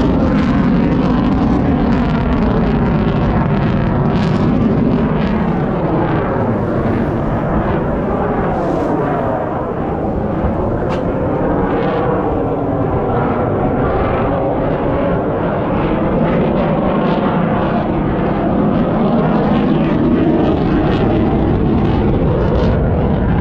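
Airshow airplane engine running loud and continuous as the aircraft flies past, its pitch bending down and back up as it moves.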